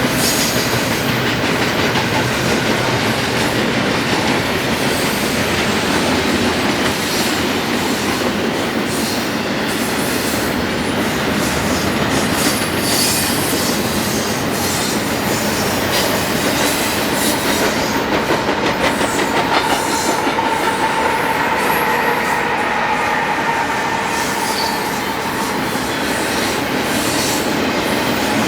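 Railroad cars rolling past, wheels clacking over the rail joints. In the second half a steady high-pitched wheel squeal holds for several seconds.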